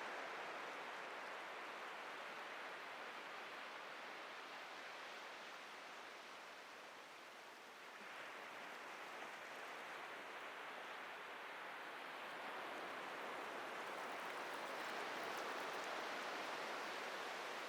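Atlantic surf breaking and washing up the beach in a steady hiss, easing off about halfway through, then building again as the next waves come in.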